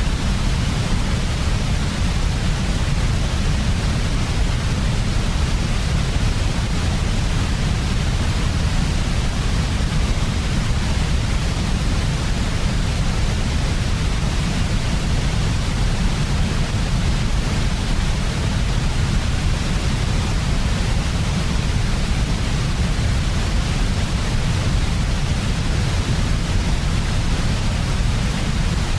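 Steady generated sleep noise for babies, sold as white noise but heaviest in the deep low end, with a softer hiss above. It does not change.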